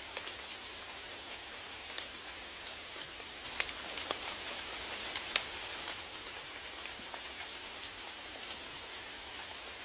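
Steady rain falling, a constant hiss with individual drops striking in sharp ticks. The drops come thicker and louder for a couple of seconds in the middle, with one loud drop about five seconds in.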